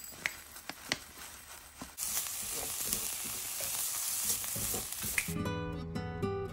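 Rolled oats pouring into a bowl with a few light ticks, then chopped onion and carrot sizzling as they fry in a pot while being stirred with a spatula. Acoustic guitar music comes in near the end.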